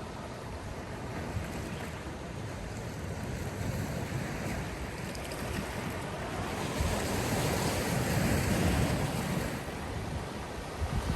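Sea waves surging and washing, a continuous hiss of surf with a bigger swell building about six and a half seconds in and easing off near the end. Wind rumbles on the microphone underneath.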